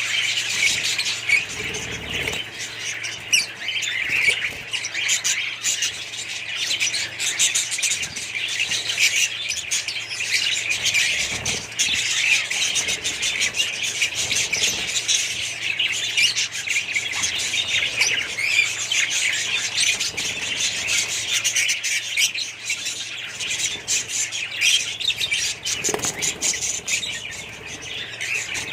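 A flock of small parrots chirping and squawking continuously, many calls overlapping into a dense, high-pitched chatter.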